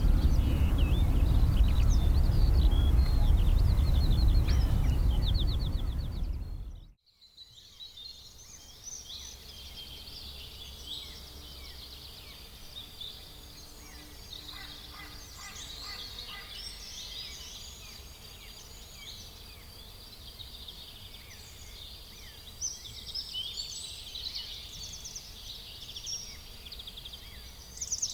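Small birds chirping and twittering over a loud low rumble for the first seven seconds or so. The sound then cuts to a quieter stretch of busier birdsong that grows denser near the end.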